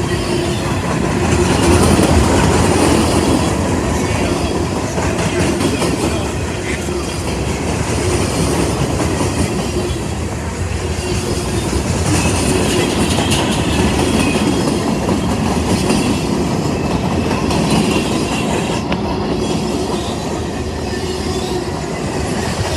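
A loaded CSX freight train's cars rolling past: a steady rumble of steel wheels on rail, with clicking over the rail joints and a faint wheel squeal now and then.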